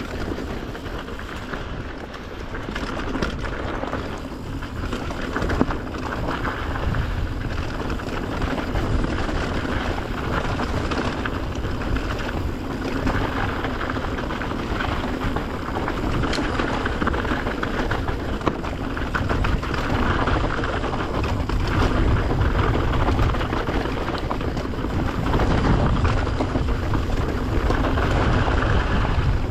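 Mountain bike riding down a dirt trail at speed: a steady rush of wind on the microphone with tyres on dirt and a constant chatter of small rattles and knocks from the bike.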